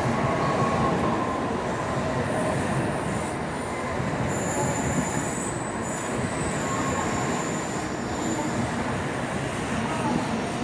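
N700A Shinkansen train pulling into a station, its cars rolling past with a steady rumble. From about two seconds in until near the end, several thin, high-pitched squealing tones come and go as it brakes to a stop.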